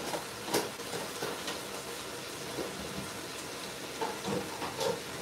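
Aloo qeema, minced meat and potatoes in oil, sizzling in an aluminium pot on a gas flame, with a few sharp pops; the oil has begun to separate from the meat as it fries down.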